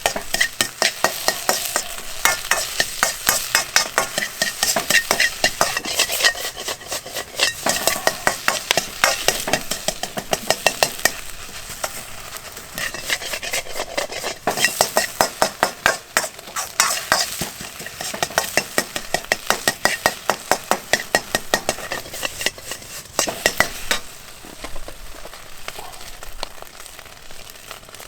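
Fried rice sizzling in a hot iron wok while a utensil scrapes and knocks against the pan in quick, repeated strikes, about three to four a second, as the rice is stir-fried. The strikes ease off near the end, leaving mostly the sizzle.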